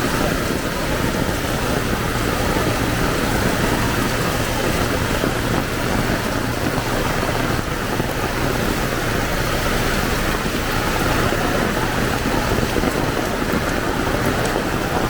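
Heavy rain falling steadily, a dense, even wash of sound.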